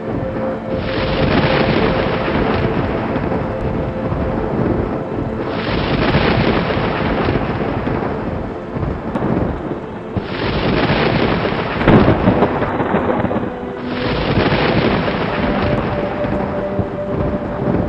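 Thunderstorm: steady rain under rolling thunder, with a fresh rumble swelling in every four or five seconds and a sharper crack about twelve seconds in.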